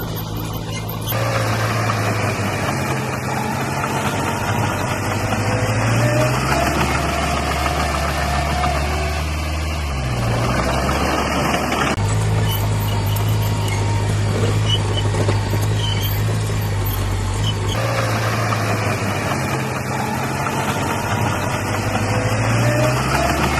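Bulldozer diesel engine running under changing load, its pitch dropping and coming back up several times, with a whine that rises in pitch twice.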